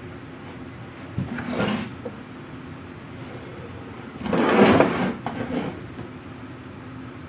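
A wooden drawer of a machinist's tool chest sliding along its runners twice, the second slide louder and longer, over a steady low hum.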